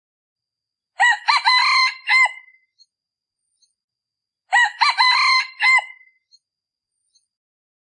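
Decoy red junglefowl rooster crowing twice, each crow a quick run of notes lasting about a second and a half, the two about three and a half seconds apart. It is the crow used to lure wild junglefowl.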